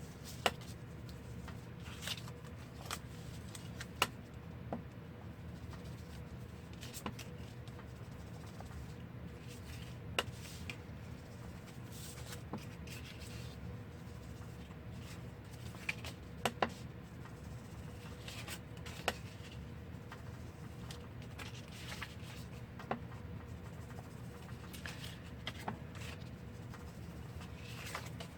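Scattered small taps and light rubbing of paper being inked by hand on a craft table, over a steady low hum.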